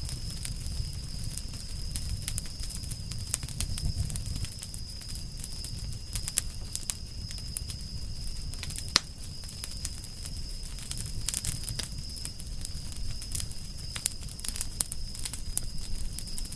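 Campfire of burning firewood crackling, with frequent irregular snaps and pops, the sharpest about nine seconds in, over a low rumble of the flames. A thin steady high tone runs underneath.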